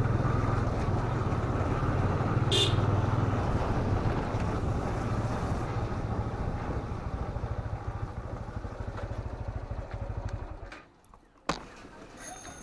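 Motorcycle engine running steadily under way. It fades and cuts out about ten and a half seconds in, followed by a single sharp click.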